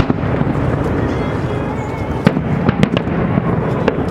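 Fireworks show: aerial shells bursting with sharp cracks over a continuous rumble of further bursts. There is one crack at the start and a quick cluster of them a little past halfway.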